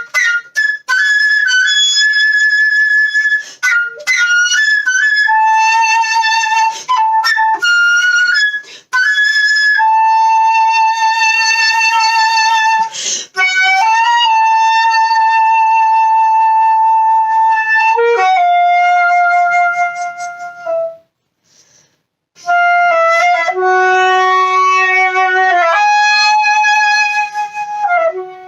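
Solo flute playing a slow, free melody. It opens with quick runs of short notes and moves into long held notes. There is a short pause about three-quarters of the way through, then more held notes that fade at the end.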